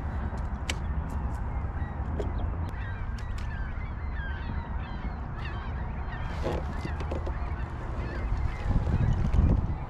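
Geese honking, with many short calls throughout, over a steady low wind rumble that swells briefly near the end.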